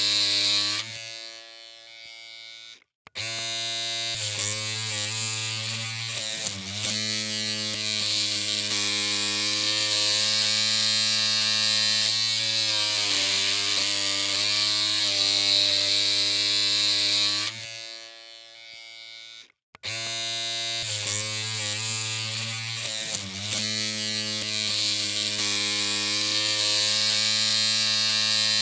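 Electric hair clippers running with a steady buzzing hum. The hum fades and cuts out briefly twice, about three seconds in and again near twenty seconds, then resumes.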